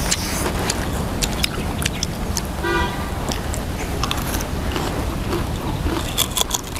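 Crisp bites and chewing of raw sour green fruit, heard as many short crunches and clicks over a steady low rumble. A brief horn-like toot sounds about two and a half seconds in.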